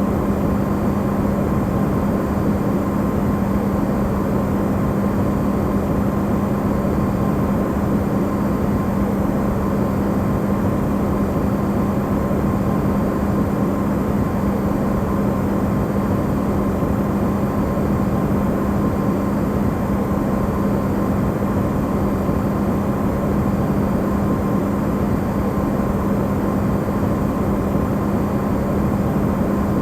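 Amplified recording of an Electrolux refrigerator running: a steady low hum with a fainter higher tone over an even rushing noise, unchanging throughout.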